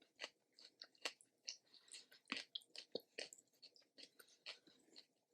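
A person chewing food with faint, irregular mouth clicks and small crunches, several a second.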